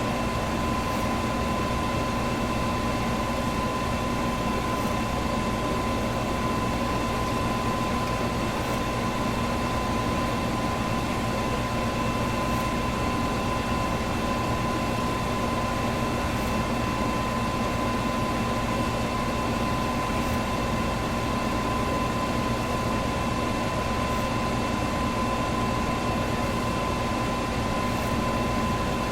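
Electric fan running steadily: an even rush of moving air with a constant motor hum and a thin steady whine mixed in.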